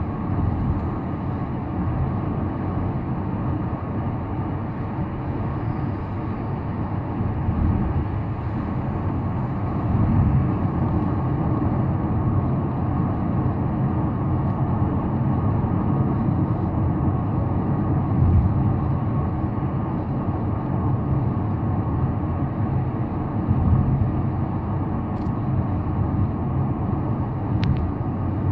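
Steady road noise of a car driving: a continuous low rumble of tyres and engine.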